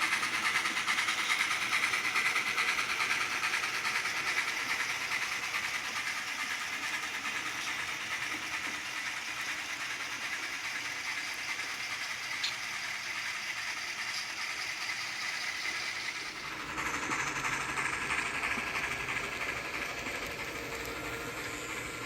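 Model train running on layout track: a steady clatter of small wheels over the rails, slowly getting quieter. About two-thirds of the way through, the sound changes abruptly.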